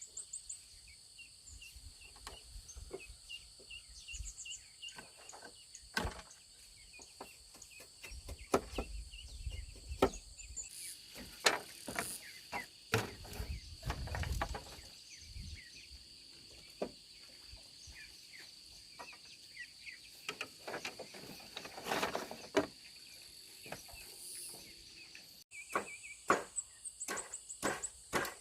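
Insects chirring steadily and high-pitched, with scattered knocks and taps throughout.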